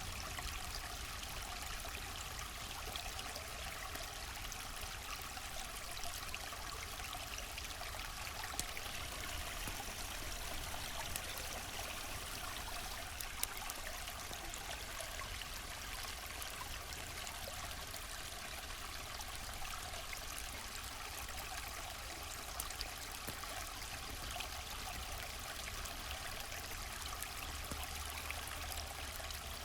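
River water flowing steadily, a continuous rushing and trickling, with a few faint sharp clicks here and there.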